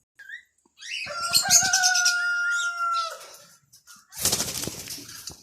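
A rooster crowing: one long, steady call held for about two seconds. About four seconds in, a burst of flapping wings follows.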